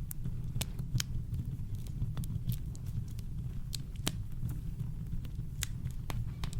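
Campfire crackling: irregular sharp snaps and pops of burning wood, about ten in a few seconds, over a steady deep rumble of brown noise.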